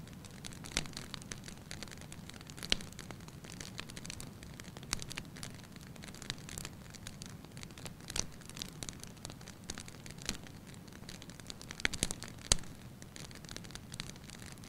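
Wood fire crackling in a fireplace: irregular sharp pops and snaps over a steady low rush of the flames, with a quick cluster of louder pops about twelve seconds in.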